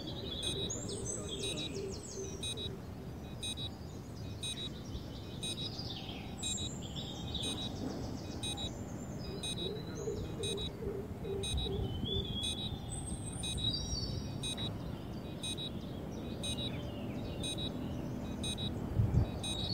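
Several birds chirping and whistling in short, varied calls over a steady outdoor noise bed, with a short low bump near the end.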